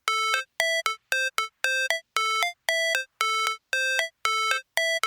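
Synthesizer intro of short, bright beeping notes, roughly two a second, alternating between two pitches. Each note ends in a quick higher blip.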